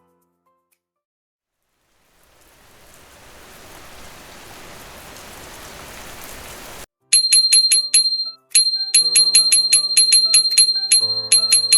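A steady hiss like rain or spraying water builds up and then cuts off suddenly, followed by a fast run of bright, bell-like dings, several a second, with musical notes underneath near the end.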